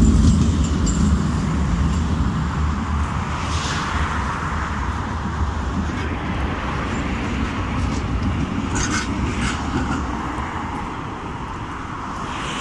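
Steady road-traffic noise of passing cars, a low rumble that eases off near the end.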